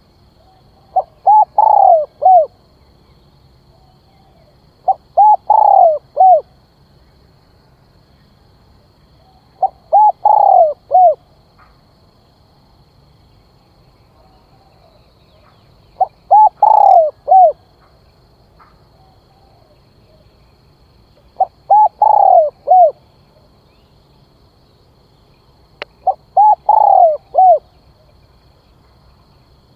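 Spotted dove cooing: six phrases of four or five coos each, repeated about every five seconds.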